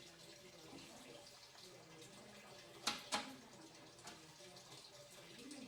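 Two sharp clicks or knocks about a quarter second apart, over a faint steady hiss like trickling water.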